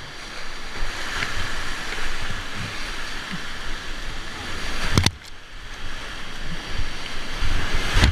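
Rushing whitewater of a steep river rapid at high release flow, a steady loud hiss of water, with wind buffeting the microphone. A sharp knock about five seconds in.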